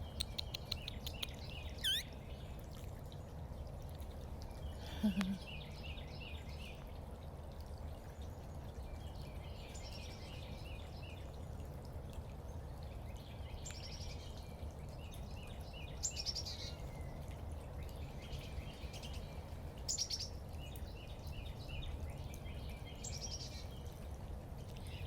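Backyard songbirds singing in short repeated phrases, with a few sharp high chip notes, over a steady low background rumble.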